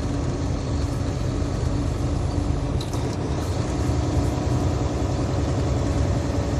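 Loaded semi truck's engine and road noise heard inside the cab, a steady low rumble with a constant hum while cruising at speed. There is a brief light click about three seconds in.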